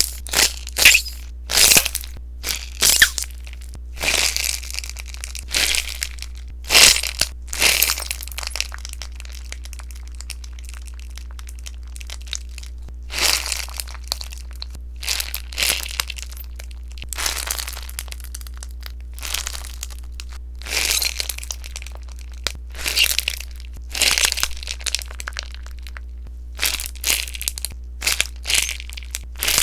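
Popping sponge slime being worked, crackling and popping in irregular bursts, with a lull of a few seconds in the middle.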